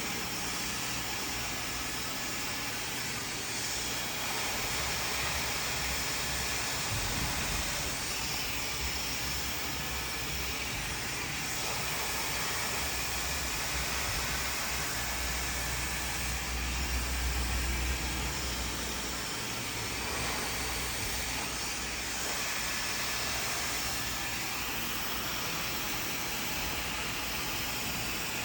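Handheld hair dryer blowing steadily, a constant airy hiss. A low rumble swells for a few seconds a little past the middle.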